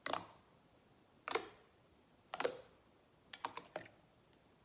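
A series of sharp clicks, roughly one a second, then three in quick succession.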